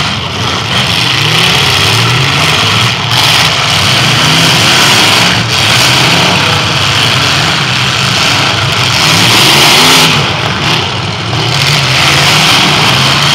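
Several demolition derby cars' engines revving hard together, their pitch wavering up and down as the cars push and spin their wheels.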